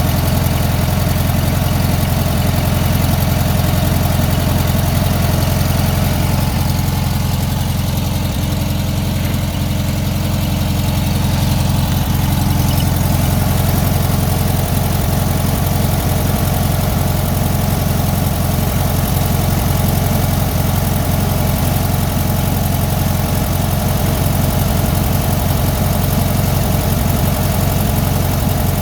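1965 VW Beetle's 1.2-litre air-cooled flat-four engine idling steadily.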